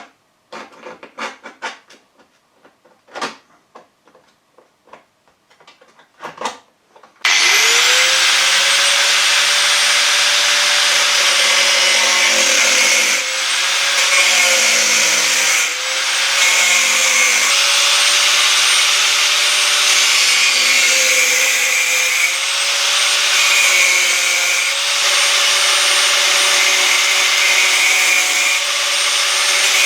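A few short scratching sounds, then about seven seconds in an angle grinder with a thin cutting disc starts up and runs loudly and steadily, cutting sheet steel. Its pitch dips slightly now and again as the disc takes load.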